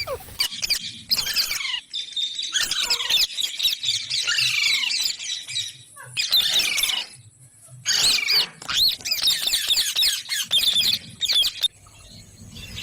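Green parrots chattering and squawking in quick, high, falling calls. The calls come in dense bursts, with short pauses around the middle and near the end.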